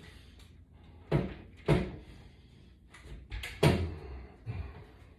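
Several separate clunks and knocks of hard gear being handled and set down, each brief and sharp, the loudest a little over three and a half seconds in.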